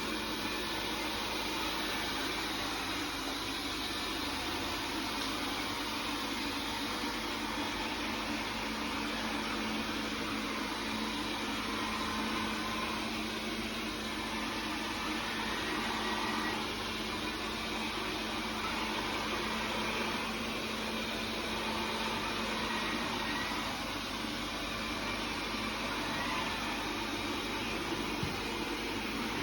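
Xiaomi Mi Robot Vacuum Mop Pro robot vacuum running at a steady, even level while wet-mopping the floor, its suction fan and motors giving a constant whir with a low hum underneath.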